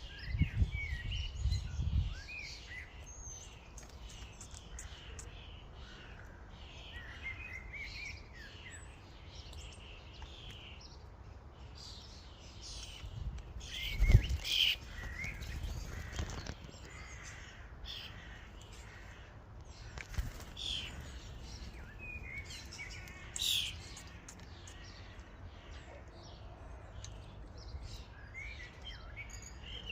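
Common starlings chattering and calling at a feeder: many short whistles, chirps and harsher notes overlapping throughout, with one sharp knock about halfway through.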